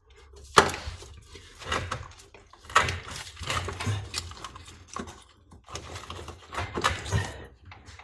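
A car wiring harness being pulled and worked free by hand: irregular rustling with sharp clicks, clinks and knocks, the loudest about half a second in and again near three seconds.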